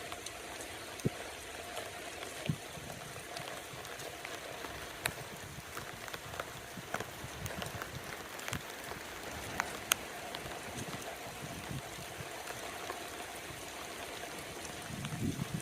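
Steady rain, with scattered sharp taps of drops striking an umbrella. Wind starts buffeting the microphone near the end.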